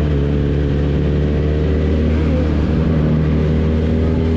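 Motorcycle engine running at a steady speed while riding, its pitch holding even.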